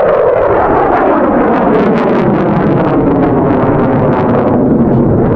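F-22 Raptor fighter jet passing by with a loud, continuous engine roar whose pitch falls steadily as it goes past.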